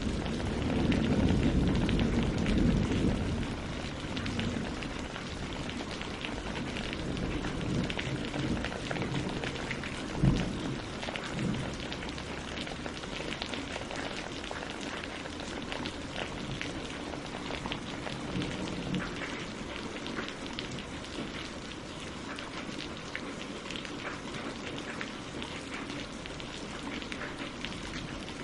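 Steady rain pattering on water and leaves, dense with small drop ticks. A low rumble dies away over the first few seconds, and a single sharp thud comes about ten seconds in.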